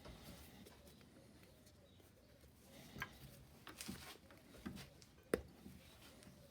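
A few faint, separate clicks and light knocks over quiet room tone, the sharpest one a little over five seconds in.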